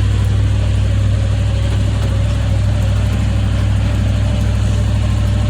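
A vehicle's engine running with a steady low drone as it moves slowly, with no change in pitch or level.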